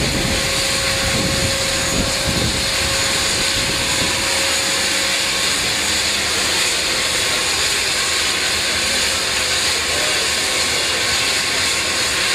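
Aircraft engines running steadily at high power for a takeoff from water: a loud even roar with a faint steady whine, and a low rumble over the first few seconds that then eases.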